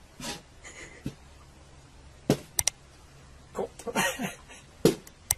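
Sharp, irregular knocks and clatters as a young goat kid's hooves and head strike a framed mirror and the hard tabletop under it, with a short scuffling cluster of sounds about two-thirds of the way through.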